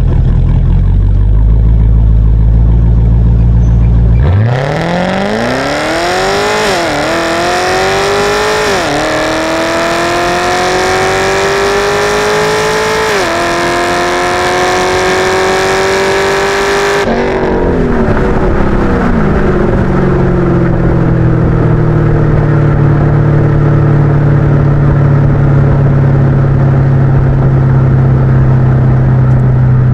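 Supercharged LS3 V8 of a Pontiac G8 GXP, heard at the rear plate by the exhaust, running steadily at low revs and then launching about four seconds in. It revs up hard through three upshifts in a quarter-mile drag pass. After about thirteen seconds at full throttle the driver lifts, the engine note falls away, and it settles into a steady low drone.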